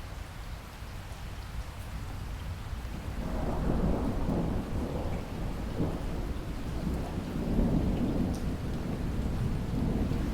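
Steady rain with a long roll of thunder that builds about three seconds in and keeps rumbling, swelling and easing, through the rest.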